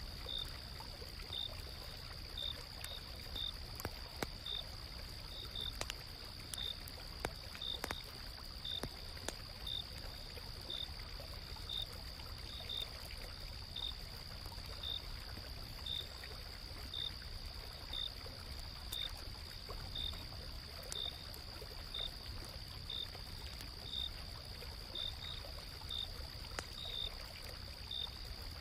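Autumn-night insects: a steady high trill with a cricket-like chirp repeating a little more than once a second, over the low murmur of a flowing stream and scattered sharp crackles of a campfire.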